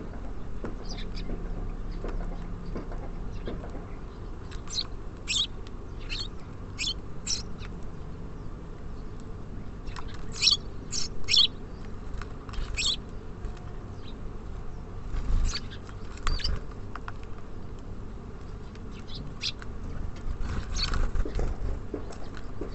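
Small songbirds at a feeder giving short, sharp high chirps in scattered bursts, over a steady low background rumble, with a few dull knocks from the feeder partway through.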